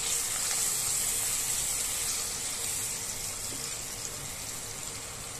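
Onion and cashew paste sizzling in hot ghee in a wok: a steady frying hiss that slowly dies down.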